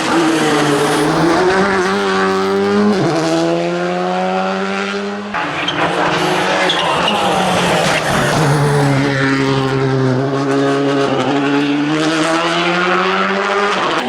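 Skoda Fabia RS Rally2's turbocharged four-cylinder engine driven hard on a tarmac rally stage, revving up through the gears. The pitch drops sharply on upshifts about three and five seconds in, then climbs steadily again through the second half.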